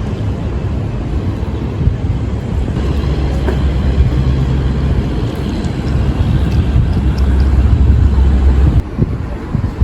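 Steady low rumble of a train in motion, dropping away suddenly near the end.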